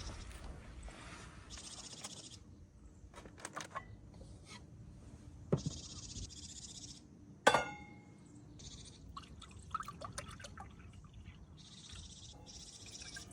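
Water being poured in short bursts, with small clicks and knocks between them and one sharp clink that rings briefly about halfway through.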